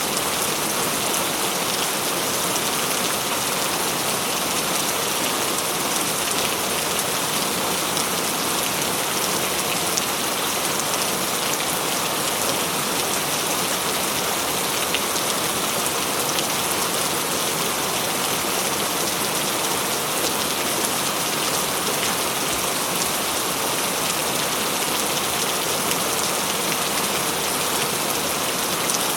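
Steady heavy rain falling on surfaces, with the scattered ticks of individual drops.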